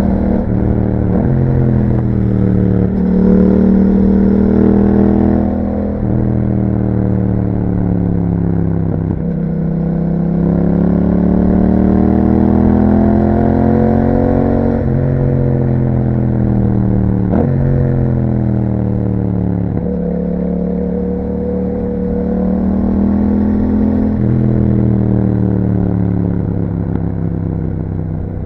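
2021 Yamaha MT-07's 689 cc parallel-twin engine through an Akrapovic exhaust with dB killer, under way: its pitch climbs and falls repeatedly as it accelerates through the gears and eases off, with a few sharp cracks where the pitch drops.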